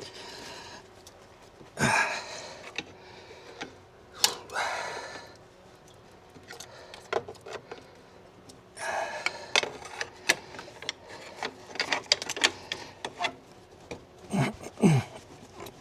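Hand tools clicking, clinking and scraping on metal engine parts, in scattered strokes, with a run of quick clicks from about nine to thirteen seconds in.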